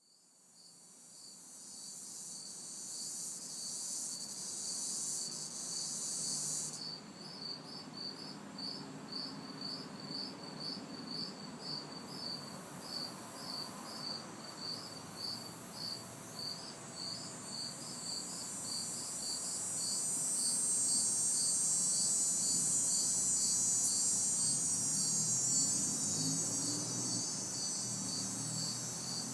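Night insect chorus: crickets chirping in an even pulse of about two chirps a second, over a high cicada buzz that drops out about seven seconds in and swells back from about eighteen seconds. A faint hum of distant traffic runs underneath, and the whole sound fades in at the start.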